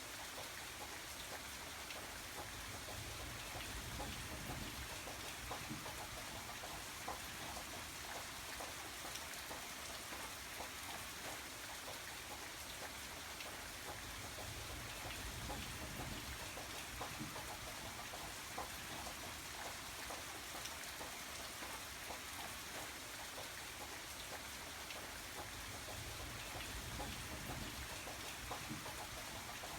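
Steady rain falling, with many small drop ticks over an even hiss and a low rumble that swells and fades a few times.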